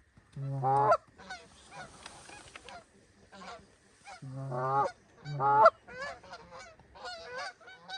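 Canada goose honking: a series of short honks, each breaking upward in pitch, the loudest about half a second in and twice around five seconds in, with fainter honks between.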